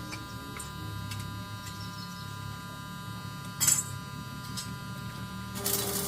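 Steady electrical machine hum, with a short, sharp noisy burst about three and a half seconds in and another noisy stretch near the end.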